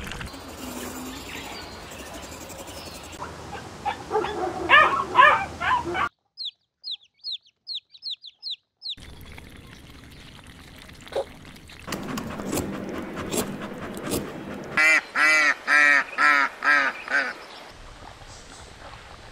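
White domestic waterfowl calling in a burst of loud honking quacks, followed by a run of about eight quick, high, downward chirps. Later come clicks and splashy noise, then a run of about six loud, evenly spaced calls.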